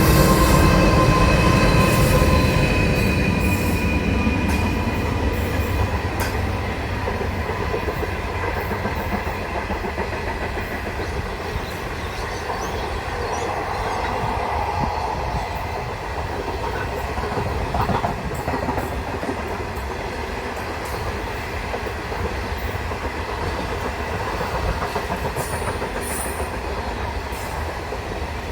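A train running on the rails, a steady low rumble of wheels on track that is loudest at the start and eases off. High steady ringing tones, like wheel squeal, sound in the first few seconds and fade away.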